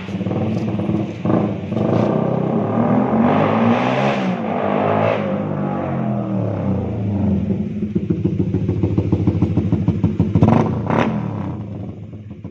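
Suzuki Raider 150 Fi's single-cylinder four-stroke engine through a loud Creed GP Warrior open-pipe exhaust, revved in blips: the pitch climbs and falls a few seconds in, climbs sharply again near the end, then drops back to a pulsing idle.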